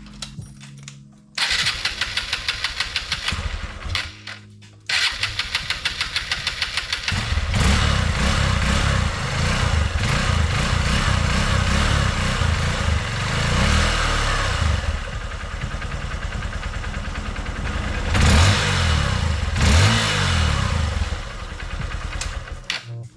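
Honda XR150L's single-cylinder engine cranked on its starter: a first try of about three seconds doesn't catch, the second try starts it after a couple of seconds. It then idles, is blipped up twice near the end, and is shut off. It is being run to circulate freshly changed oil before the level is checked.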